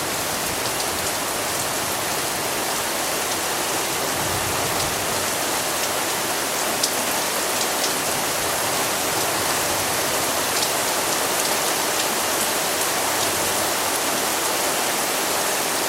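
Heavy rain falling steadily, a dense hiss with scattered sharper drop impacts, including one a little louder about seven seconds in.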